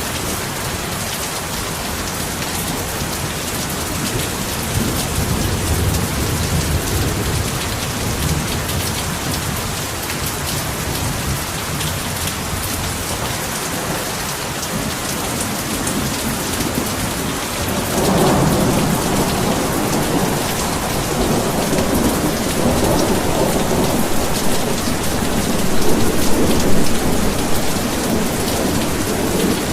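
Heavy rain falling steadily, with rolling thunder: a low rumble around five seconds in, and a louder one that starts suddenly about eighteen seconds in and is loudest near the end.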